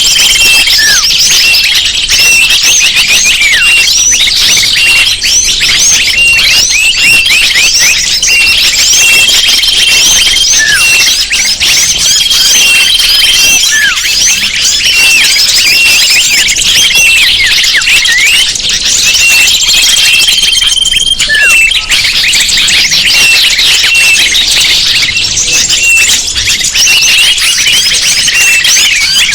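Bird-lure (pikat) recording of many small birds chirping and twittering at once, a dense, loud, unbroken chorus of quick high chirps. A short steady whistle note recurs every few seconds above it.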